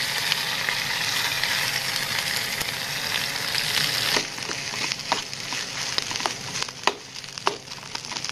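Boiled potatoes dropped into hot oil with mustard seeds in a small metal camping pan, sizzling loudly. About four seconds in the sizzle drops abruptly to a softer frying, with sharp clicks and scrapes of a knife blade stirring and mashing the potatoes against the pan.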